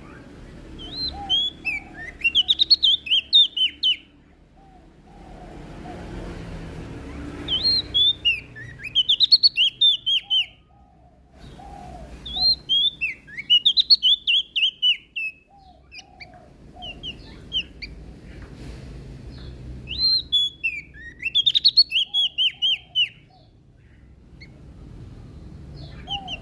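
Prenjak daun (a small leaf warbler) singing in four bursts of rapid, sharp, high chirping notes, a few seconds apart, over a faint background hiss.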